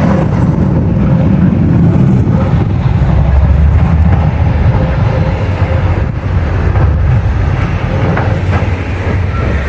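Train passing close by: a loud, steady low rumble with occasional clicks of wheels over rail joints.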